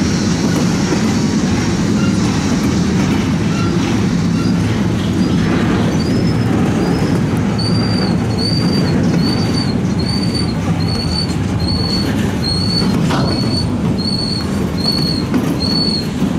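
Freight train of loaded flatcars rolling past with a steady rumble of wheels on rail. From about halfway through, a high squeal repeats about every two-thirds of a second.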